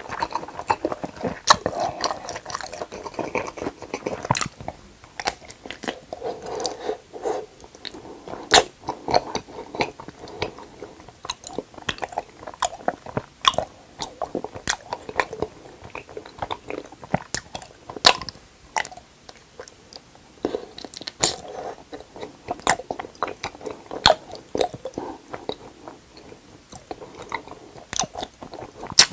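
Close-miked eating sounds: a mouthful of cheese-filled barbecued pork being chewed, then raw honeycomb, wax and honey, chewed wetly, with many sharp irregular clicks and smacks.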